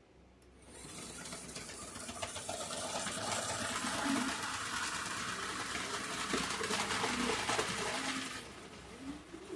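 Tyco HO-scale model diesel train running along the track close by: a steady whirring clatter of motor and wheels that builds up about a second in and cuts off sharply near the end.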